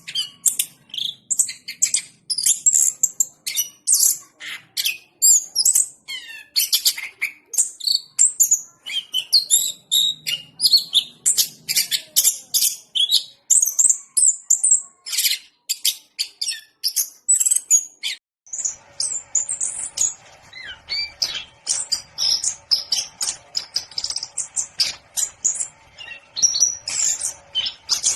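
Orange-headed thrush singing a fast, unbroken stream of varied high notes and trills. About two-thirds of the way through, the recording changes and a steady low hum sits behind the song.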